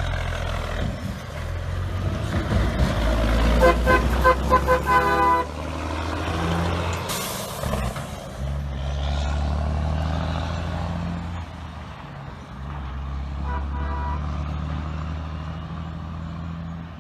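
Straight-piped Western Star 4964 diesel truck running hard through its open pipes. A string of short train-horn blasts sounds about four seconds in, and a brief horn toot near fourteen seconds. The pipe note drops out briefly twice along the way.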